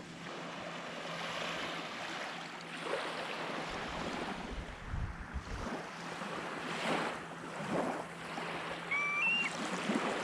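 Small waves washing onto the beach, rising and falling every second or two, with a stretch of wind rumble on the microphone around the middle. A bird gives a short whistled call near the end.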